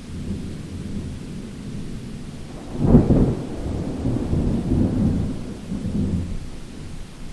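Thunder rumbling low in a rainstorm, with a sharper, louder crack about three seconds in that rolls on and fades near the end, over steady rain hiss.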